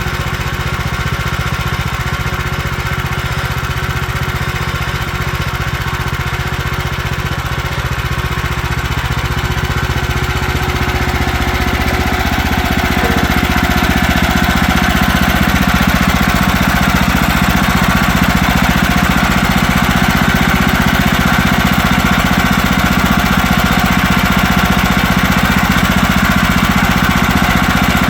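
Woodland Mills HM130Max sawmill's gas engine running steadily, getting louder between about ten and fourteen seconds in and then holding at the higher level.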